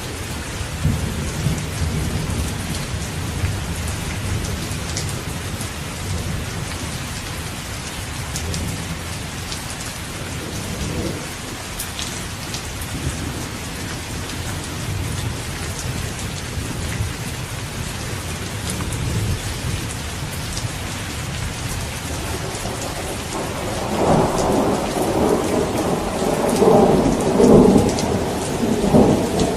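Steady rain falling, with low rumbles of distant thunder; a louder thunder peal swells up near the end.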